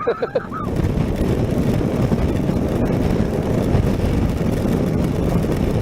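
Steady wind rush and road noise from a Honda NC700X motorcycle riding at speed through the rain.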